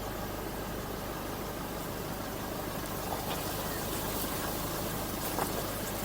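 Vehicle engine running steadily at low revs, with a few faint clicks in the second half.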